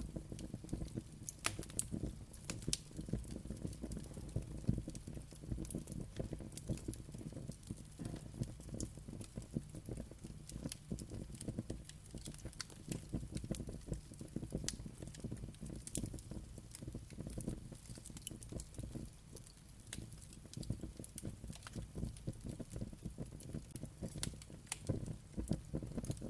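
Wood fire burning, with a steady low rumble of flames and frequent irregular sharp crackles and pops.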